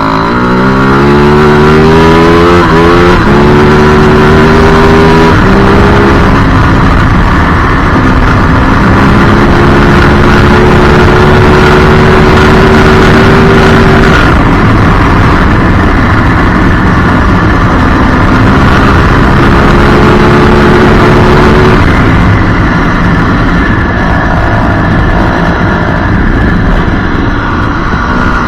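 Yamaha WR450F's single-cylinder four-stroke engine under way off-road. It revs up and shifts up twice in the first few seconds, then holds a steady pitch. Near the middle it backs off, picks up again, and drops off once more before a final climb in revs near the end.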